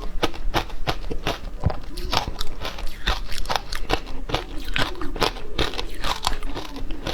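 Frozen matcha ice being bitten and chewed: a close, dense run of sharp crunching cracks, several a second.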